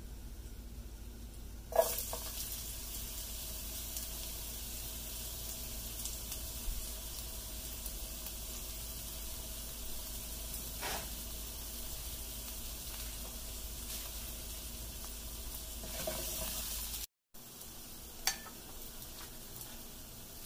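Chopped onion hitting hot oil in a nonstick frying pan: a loud sizzle starts suddenly about two seconds in and goes on as a steady sizzle, with a few short clicks. Near the end the sound cuts out for a moment and comes back as a quieter sizzle.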